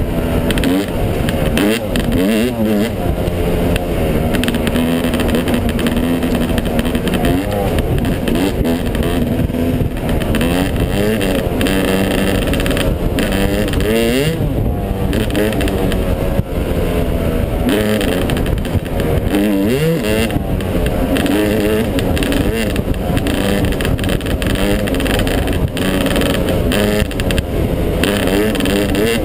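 Yamaha 250 dirt bike engine running under way, its pitch rising and falling again and again as the throttle is worked.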